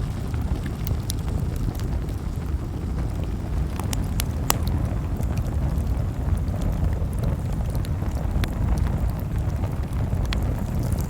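Campfire burning, a steady low rumble of flame with scattered sharp crackles and pops from the burning wood at irregular intervals, the loudest pop about four and a half seconds in.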